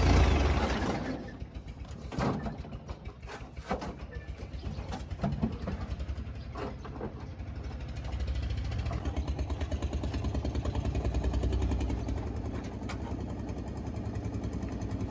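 A heavy vehicle's engine running with a rapid, even low throb, after a loud burst of noise at the start; the engine grows louder about eight seconds in.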